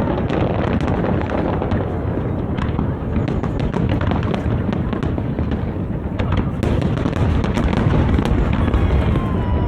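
Aerial fireworks bursting continuously: a steady low rumble of booms with many sharp crackles, the crackling denser in the second half, and a brief falling whistle near the end.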